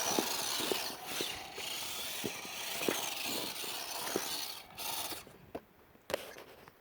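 WPL D12 1/10-scale RC drift truck driving, its small electric motor and gears whining and rising and falling in pitch with the throttle, with scattered clicks. The whine stops about five seconds in.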